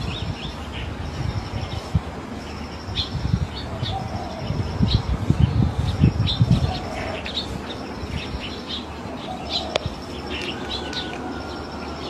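Small birds chirping, with a thin high note repeating about once a second, over low irregular rumbling buffeting on the microphone that is strongest around the middle.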